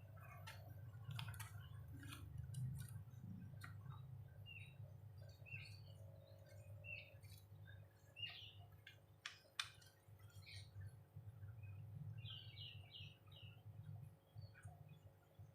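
White-rumped shama (murai batu) giving scattered short, faint chirps and sharp clicks, with a quick run of chirps near the end, over a steady low hum.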